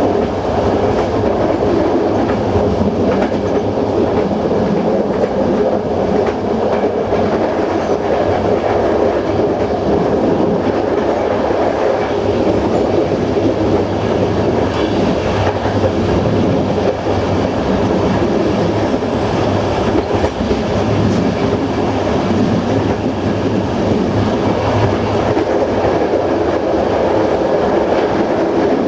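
Passenger train running at speed, heard from its rear end: a steady rumble and clatter of the wheels on the track. A thin high-pitched squeal comes and goes for several seconds past the middle.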